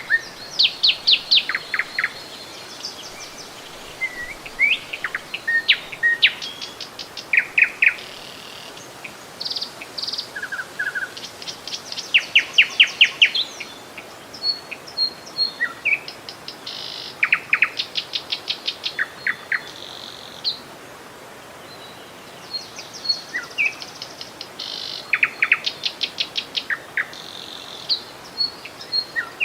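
Songbirds calling: rapid trills and short chirps and whistles, several calls overlapping and repeated throughout, over a faint steady hiss.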